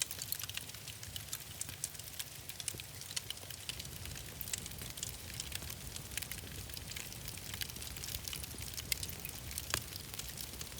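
Wood fire crackling in a fireplace: a steady hiss and low rumble with frequent irregular sharp pops and snaps.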